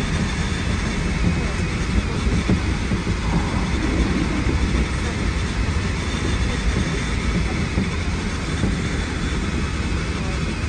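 Hankyu 1300 series electric train heard from the driver's cab: a steady, continuous rumble and hum with no distinct events.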